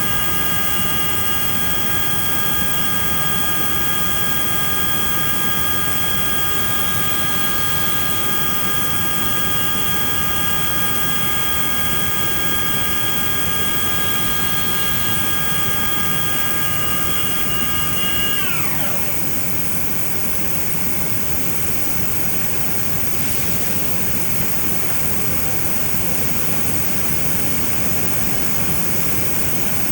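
Mazak Variaxis 730-5X II CNC machining center running, its spindle giving a steady high whine over the machine's constant hum and hiss. About two-thirds of the way through, the whine drops quickly in pitch and fades as the spindle spins down, and the steady machine noise carries on.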